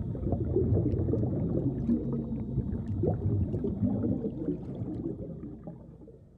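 Underwater bubbling and gurgling with scattered small ticks, fading out near the end.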